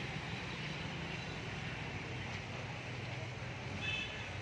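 Mahindra four-cylinder diesel engine of a 30 kVA generator set running steadily. A short high-pitched sound comes about four seconds in.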